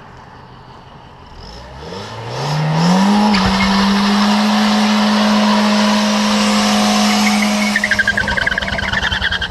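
Car engine revving up, its pitch climbing over about a second and a half, then held at one steady high speed for several seconds before it wavers near the end.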